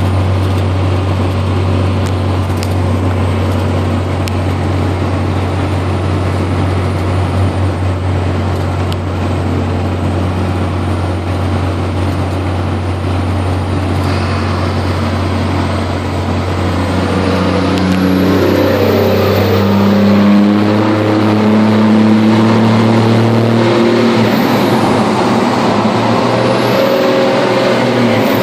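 1997 Dodge Ram 2500's 12-valve Cummins diesel running through a 5-inch exhaust in a road tunnel: a steady deep drone, then about two-thirds of the way through the note climbs and changes as the engine pulls harder.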